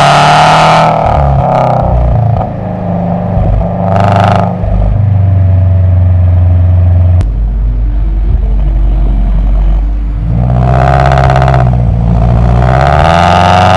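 Exhaust of a 2015 Subaru Forester's 2.5-litre flat-four, fitted with unequal-length headers and a full aftermarket exhaust, as the car is driven. The engine revs up and eases off in several surges, with a steadier low drone in the middle.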